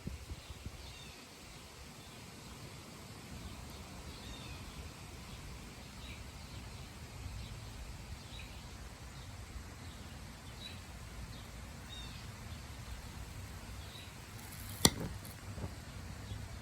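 Stalled Lasko box fan motor held on mains power with shorted turns in its windings and no run capacitor. It hums low and steady while its windings overheat. Birds chirp faintly in the background, and there is one sharp snap near the end.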